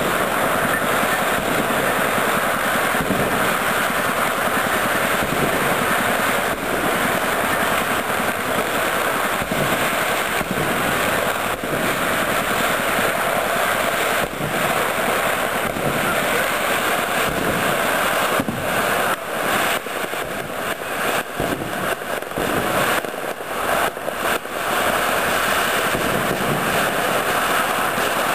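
Fireworks going off in a dense, continuous barrage of bangs and crackle, breaking into more distinct separate bangs about two-thirds of the way through.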